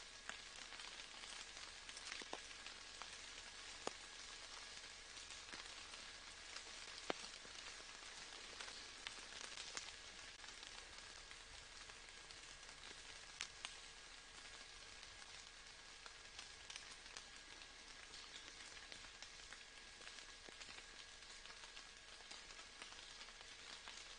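Rain falling steadily and faintly: a soft even hiss of drops with a few louder single drop hits scattered through it.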